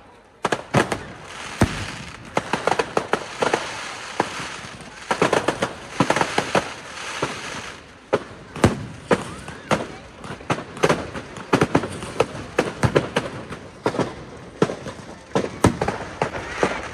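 Aerial fireworks bursting overhead: many sharp bangs and rapid crackling reports in irregular clusters, one after another.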